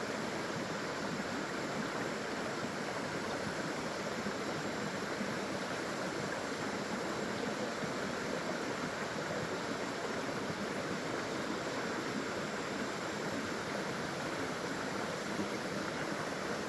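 Water flowing over a small waterfall: a steady, even rushing noise with no breaks or separate splashes.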